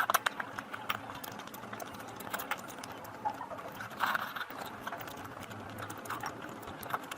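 Close-miked eating: a fast run of wet chewing and mouth-smacking clicks, louder at the start and again about four seconds in.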